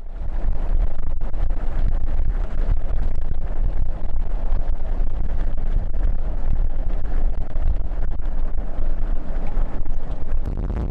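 Strong storm wind buffeting the microphone: a loud, dense rush with heavy low rumbling that starts abruptly and eases to a steadier, lower level near the end.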